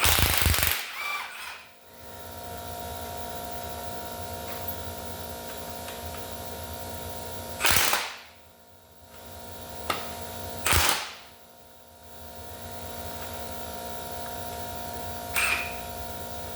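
Impact wrench with a turbo bolt-extractor socket hammering at a stuck exhaust manifold bolt on an LS engine, in three short rattling bursts and a brief fourth near the end. A steady hum runs underneath.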